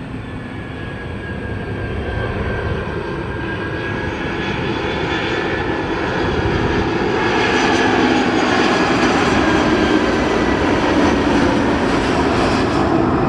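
An airliner's engines running, with a steady whine over a rushing noise that grows louder as the aircraft comes nearer.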